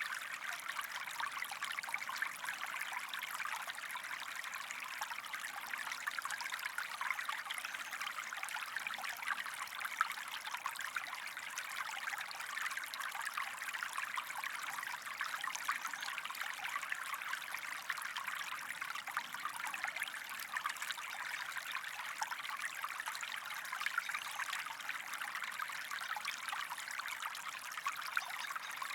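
A small stream running and trickling in a steady, unbroken flow.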